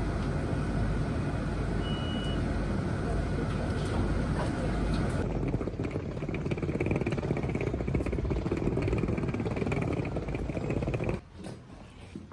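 Steady low rumble of a moving vehicle. The sound changes abruptly about five seconds in and falls away sharply near the end.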